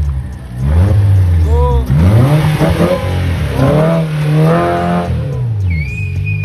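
Volkswagen Polo's rebuilt 1.4 engine being revved, its pitch climbing and dropping back about three times.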